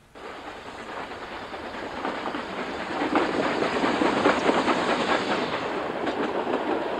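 Narrow-gauge steam train passing close by with a dense clatter of wheels and rolling stock on the rails. It grows louder to a peak about halfway through, then cuts off abruptly at the end.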